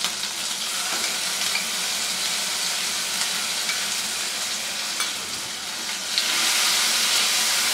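A wet spice paste (ground spices, ginger and green chilli paste mixed with a little water) sizzling as it hits hot oil in a non-stick kadai, stirred with a spatula. The sizzle gets louder about six seconds in as the paste is spread through the oil.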